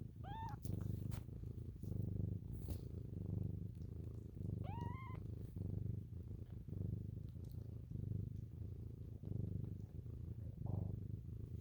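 A cat purring in a low rumble that swells and fades with each breath, about once every second and a bit. Two short, high kitten mews come in, one right at the start and one about five seconds in.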